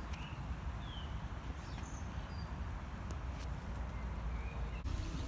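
Small birds chirping with short, scattered calls, one gliding down in pitch, over a steady low rumble.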